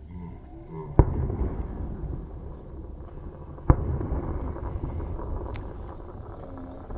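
Two fireworks bangs about two and a half seconds apart, each followed by a long rumbling tail.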